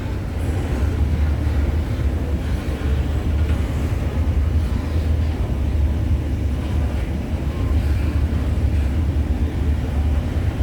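Freight train rolling past, a steady low rumble without distinct strokes.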